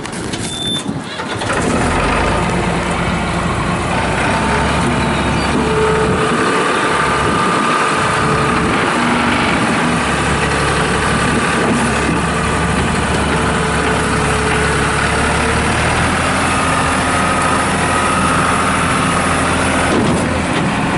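Diesel engine of a 2001 New Holland LS180 skid steer loader being started from cold. It catches about a second and a half in and then runs steadily.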